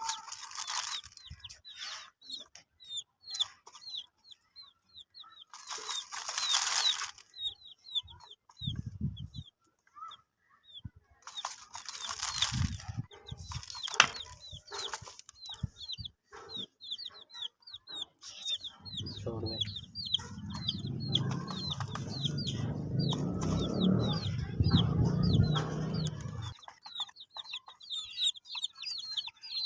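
Baby chicks peeping constantly in short, high, falling cheeps. There are several brief bursts of rustling and scratching noise, and a low rumble from about 19 to 26 seconds in.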